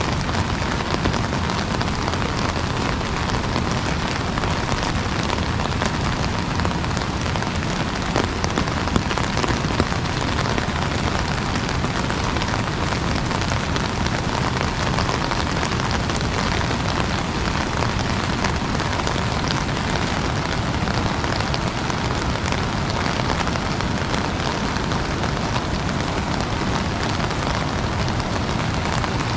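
Steady rain on an umbrella: a dense, even patter of drops, with a few slightly louder drops about eight to ten seconds in.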